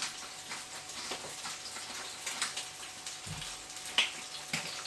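Chicken pieces frying skin-side down in hot oil in a frying pan: a steady sizzle with faint crackles, and a brief low thump a little past the middle.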